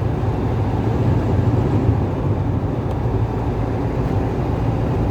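Steady road and engine rumble heard inside the cabin of a car driving at about 80 km/h through a strong gale.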